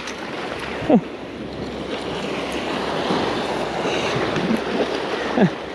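Small waves washing and splashing against a salt-marsh bank, with wind on the microphone. Twice, about a second in and again near the end, a brief sound falling in pitch cuts through the wash.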